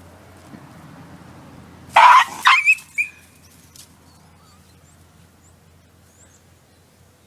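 Dog yelping from an electric fence shock: one sudden loud yelp about two seconds in, then two shorter high yelps.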